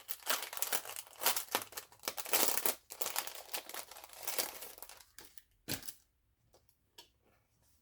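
Packaging of a craft cutting die being crinkled and torn open by hand: dense crinkling and tearing, ending with a sharp click a little before six seconds in, then a few light clicks.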